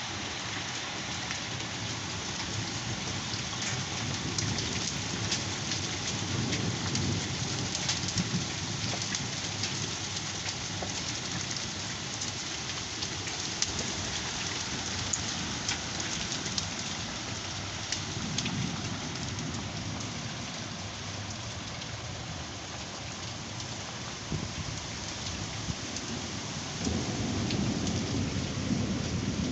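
Heavy rain pouring steadily in a severe thunderstorm, with many scattered sharp ticks of hard impacts on surfaces. Low thunder rumbles swell up a few times, the loudest near the end.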